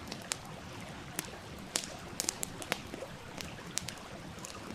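Wood campfire crackling, sharp pops at irregular intervals over the steady rush of a flowing stream.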